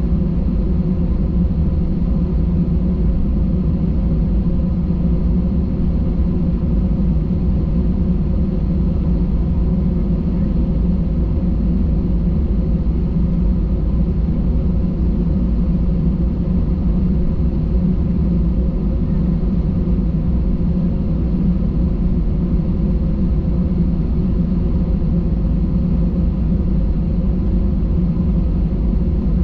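Steady engine and airflow rumble of an Airbus A320, heard inside the passenger cabin, with faint steady tones over it and no change in level.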